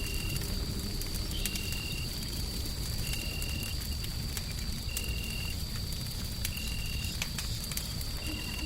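Wood fire crackling with scattered small pops over a steady low rumble of white noise. A short high chirp repeats about every second and a half, with a faint steady high whine throughout.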